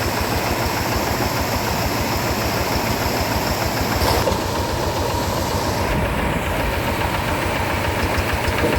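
Single-cylinder diesel engine of a two-wheel rice-field tractor running steadily with an even firing beat.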